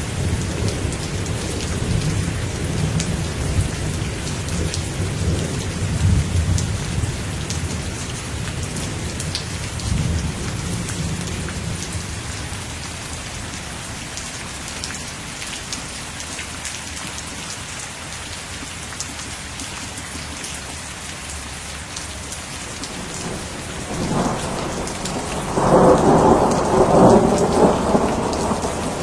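Steady rain with rolling thunder: a low rumble through the first ten seconds or so that fades away, then a louder peal of thunder building from about 24 seconds in.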